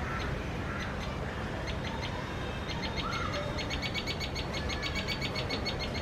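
Small bird calling: a quick run of short, high, evenly repeated notes. It starts sparse about two seconds in and grows dense and steady, several notes a second, through the second half.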